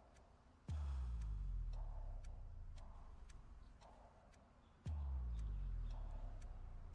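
Clock-like ticking, about two ticks a second, under two deep booming bass hits, one about a second in and one about five seconds in, each fading slowly: suspense sound design in a drama's soundtrack.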